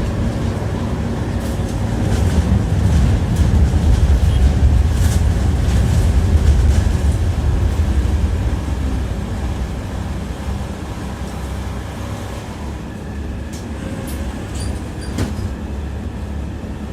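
Tram running on its rails, heard from inside the car: a low rumble with sharp clacks of the wheels over rail joints. It is loudest for the first several seconds, then grows quieter after about eight seconds.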